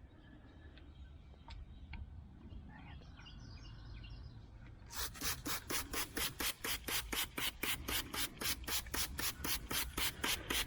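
Rapid rhythmic rasping strokes, about three and a half a second, like rubbing or scrubbing, starting about five seconds in after a faint low background.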